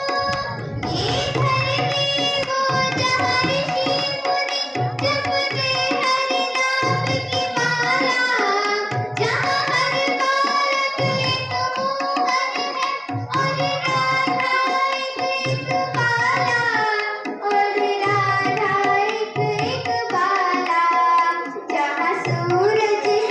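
Indian song music: a melody sung by a child's voice over a tabla beat.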